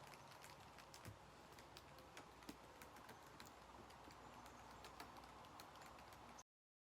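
Near silence with faint, irregular light clicks and ticks, cutting to dead silence near the end.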